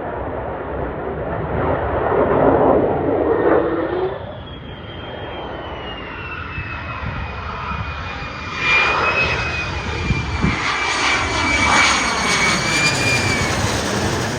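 F-35 Lightning II fighter jet flying past: a loud jet rumble that swells, eases briefly, then swells again, with a high engine whine that falls in pitch as the jet goes by.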